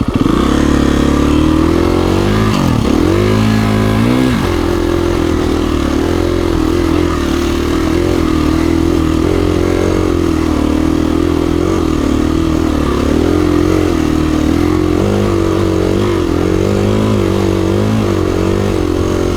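KTM 350 EXC-F dirt bike's single-cylinder four-stroke engine idling, with a few brief throttle blips that swing the pitch down and up about three to four seconds in.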